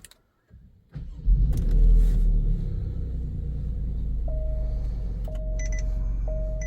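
Alfa Romeo Stelvio Quadrifoglio's 2.9-litre twin-turbo 90-degree V6 starting: it catches about a second in, revs up briefly, then settles into a steady idle. From about halfway a short chime repeats about once a second.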